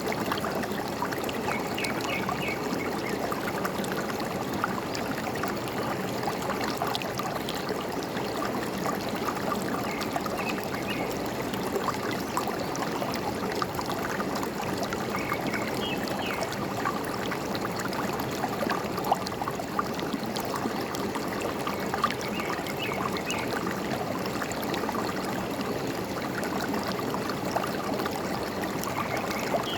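Forest stream babbling and trickling steadily, with short bird chirps a few times over it.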